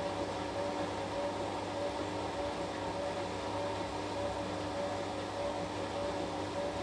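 Washing machine running steadily mid-cycle: a continuous motor and drum hum with a few steady tones, one of them wavering evenly, with no pauses or changes.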